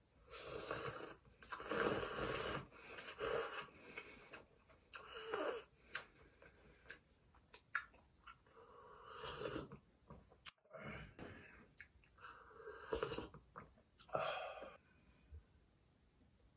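Close-miked eating sounds: a series of about seven short, airy slurps and mouth noises, each under a second, with quieter gaps between.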